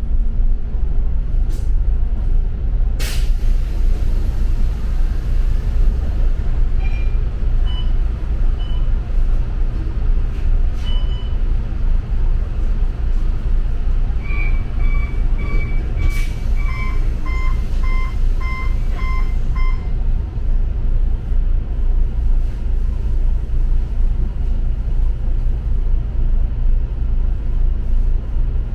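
Double-decker bus running, heard from inside: a steady low engine and road rumble, with a sharp click about three seconds in and another midway. Midway there are two runs of short, evenly spaced electronic beeps, the second run lower in pitch.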